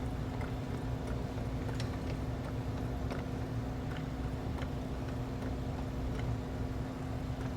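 Light, irregular metallic clicks and taps from hand tools and parts being worked, about one every second, over a steady low hum.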